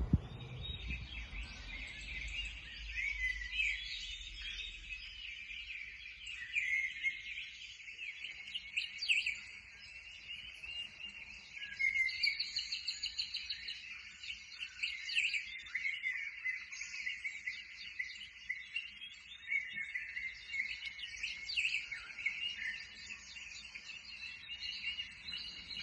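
Small songbirds chirping and twittering without pause, many quick high calls overlapping.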